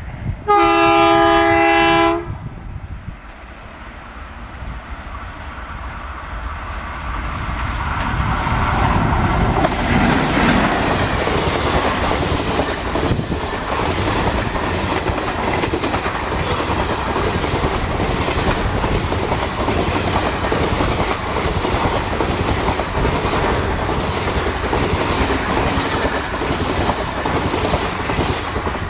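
Diesel locomotive horn sounding once for about two seconds, a chord of steady tones, then a diesel train approaching and passing, its noise building to a steady loud rumble with quick clicks of wheels over rail joints.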